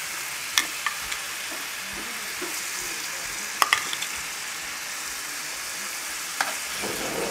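Chicken cutlets in a lime-cilantro oil marinade sizzling steadily in a hot non-stick skillet over a high flame. A few short, sharp clicks sound over it: one near the start, a pair around the middle, one near the end.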